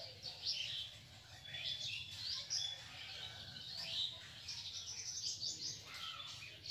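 Birds chirping in the background, many short high chirps coming one after another.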